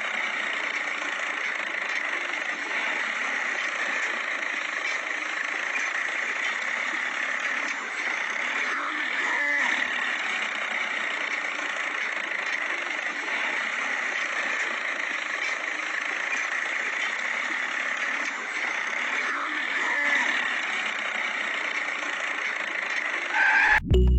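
Small electric motor of a DIY toy tractor model running steadily with a continuous whir, cut off near the end by music.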